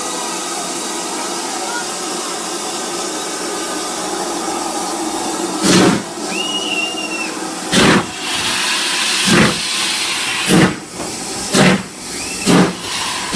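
LNER B1 steam locomotive 61306 Mayflower standing with a steady hiss of steam, then starting away: about five and a half seconds in the exhaust beats begin, slow at first and quickening as it gathers speed.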